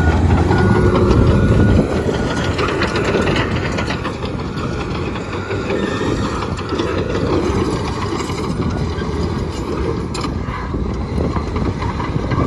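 Komatsu D65EX crawler bulldozer working: its diesel engine runs loud for the first two seconds, then the steel tracks clank and rattle as the machine moves. A reversing alarm beeps at the start and stops about a second in.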